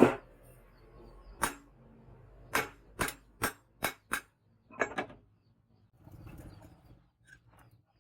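A series of sharp knocks and clicks, about nine at irregular intervals over five seconds, typical of hand-tool work on metal. Near the end comes a brief soft rustling noise.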